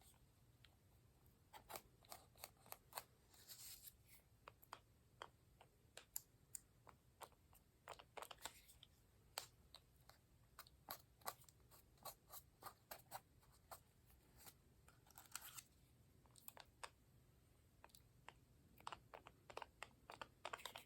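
Faint paper handling at a craft table: scattered soft clicks and taps, with a few brief rustles of paper.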